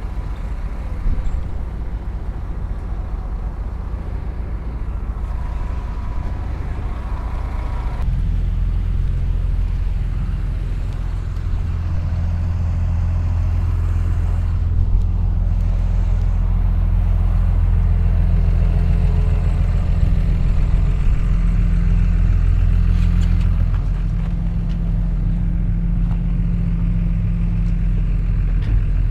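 Diesel engine of a Shantui bulldozer running steadily, getting louder about eight seconds in and easing back a little near the end.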